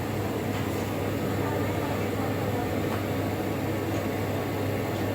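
Steady low hum with an even airy noise from running laboratory equipment and ventilation, unchanging throughout.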